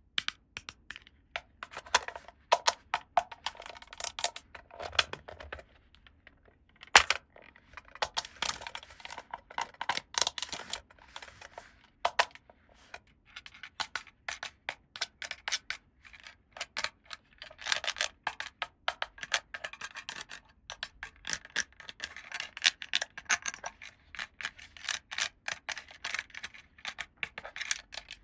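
Small plastic toy parts and packaging being handled: dense, irregular clicks, taps and crinkling.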